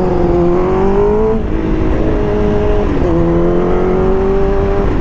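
Liter-class sport bike engine under way, heard from the rider's helmet mic with wind noise underneath. The engine note climbs, drops with an upshift about a second and a half in, drops again about three seconds in, then holds steady.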